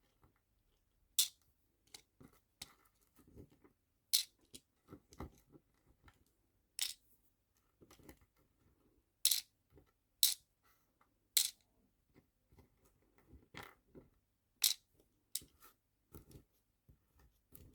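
Sharp little clicks and taps of nail-art charms and small plastic storage boxes being handled and sorted, about one every second or two, with softer taps in between.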